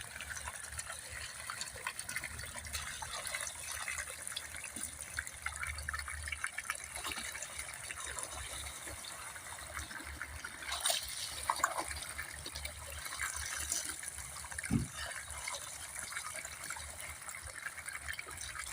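Water running and splashing steadily, with a low hum under it and a few sharper knocks.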